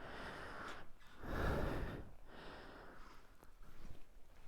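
A man breathing hard in heavy, noisy breaths while climbing a windmill ladder.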